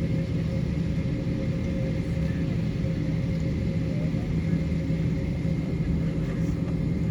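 Airbus A321's IAE V2500 turbofan engines running steadily, heard inside the cabin: an even rumble with a few steady hums over it.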